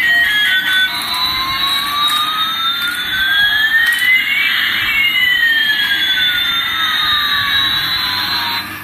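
Electronic jet-engine sound effect from a toy Airbus A380: a steady hiss with two synthetic tones gliding past each other, one rising and one falling over about eight seconds, cutting off abruptly near the end.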